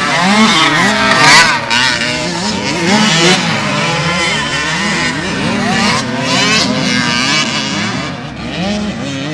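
Several motocross bikes' engines revving and shifting at once, their pitches rising and falling over one another, loudest about a second and a half in.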